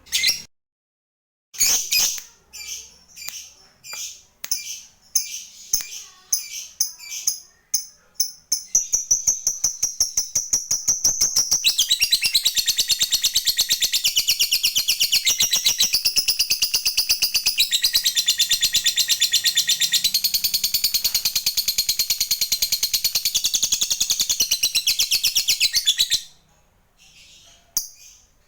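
Lovebird giving a string of short separate chirps, then from about eight seconds a long, fast, even rattling chatter that lasts about seventeen seconds before stopping abruptly. This is the long 'ngekek' song that lovebird keepers prize.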